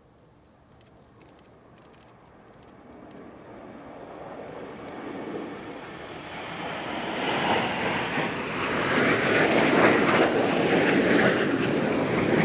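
A fixed-wing aircraft's engines, a rushing noise that grows steadily louder as the aircraft comes closer and is loudest over the last few seconds.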